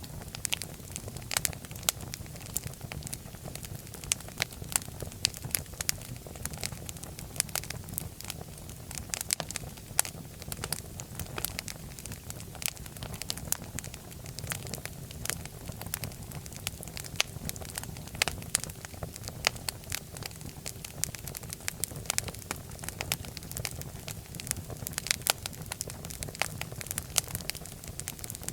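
Fire in a fireplace crackling: frequent irregular sharp pops and snaps over a steady low rumble of the flames.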